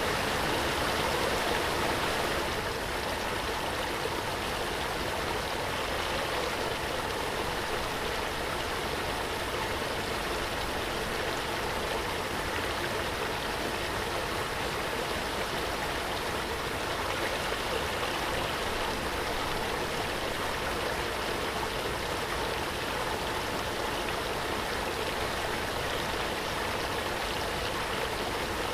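Waterfall: falling water rushing in a steady, even roar, with a slight drop in level about two and a half seconds in.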